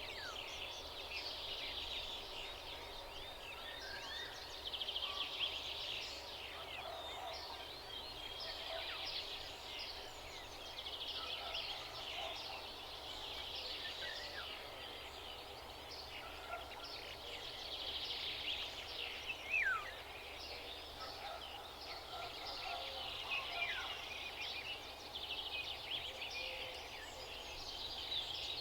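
Chorus of many small songbirds chirping, with rapid high notes that swell in overlapping bursts every few seconds. A clear falling whistle stands out about twenty seconds in.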